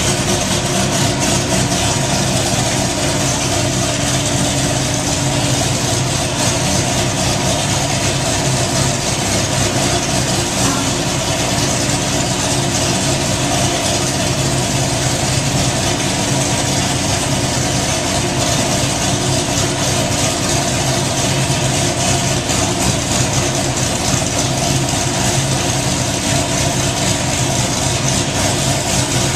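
Modified Dodge Viper GTS 8.0-litre V10 idling steadily through ARH headers and a catless Corsa exhaust, holding the same pitch throughout with no revving.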